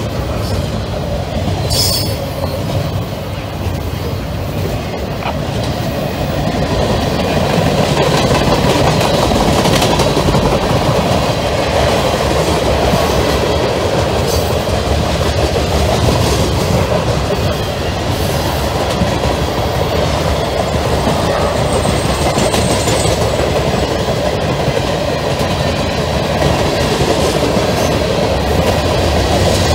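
Freight train rolling past, its steel wheels rumbling and clicking steadily on the rails as double-stack container cars, tank cars and covered hoppers go by. A faint high wheel squeal comes in briefly about two-thirds of the way through.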